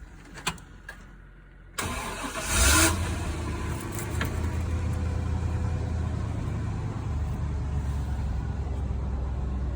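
Pickup truck engine cranked and started about two seconds in, then settling into a steady idle.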